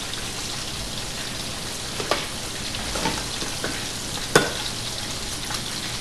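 Steady sizzle of burger patties and fries frying in pans. Over it come a few knocks and scrapes of a metal ice cream scoop working rock-hard frozen ice cream, the loudest a ringing clink a little after four seconds in.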